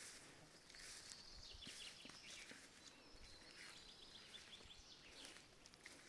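Faint birdsong: small birds giving short repeated chirps and trills over a quiet outdoor hiss.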